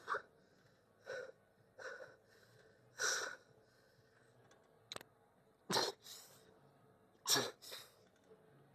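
A person's sharp, forceful breaths: repeated short puffs and exhales of exertion at uneven gaps of about a second, some starting with a brief grunt-like drop in pitch, typical of breathing hard through a set of a shoulder exercise. A single sharp click comes about halfway through.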